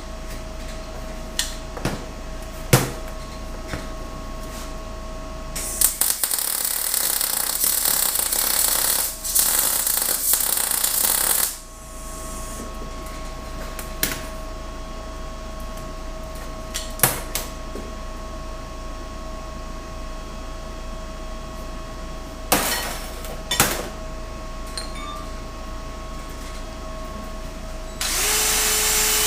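A power tool runs in two spells, about five seconds near the start and again starting shortly before the end, with scattered sharp clicks and knocks of metalwork and a faint steady hum between.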